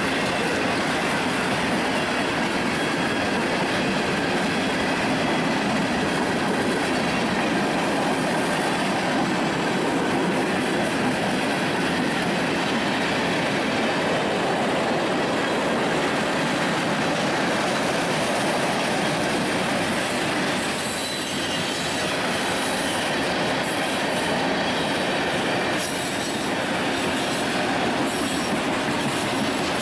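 A train rolling past with a steady rush of steel wheels on rail. Thin, high wheel squeals come in over the last ten seconds or so.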